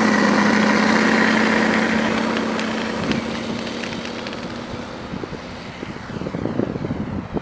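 Freewing P-51D Mustang RC warbird taking off and climbing away: its electric motor, propeller and engine-sound module make a steady drone that fades from about two seconds in as the plane moves off. Gusts of wind buffet the microphone near the end.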